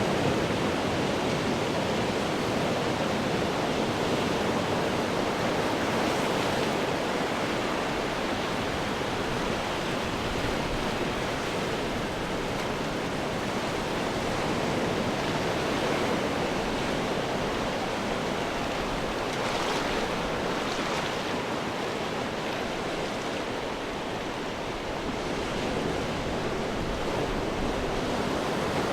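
Ocean surf breaking and washing over rocks in a continuous roar, swelling and easing slowly, with a few brighter crashes about two-thirds of the way through.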